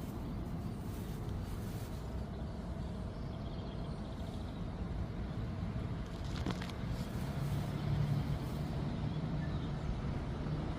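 Steady low rumble of a motor vehicle engine, its hum growing louder about seven seconds in, with a brief click just before.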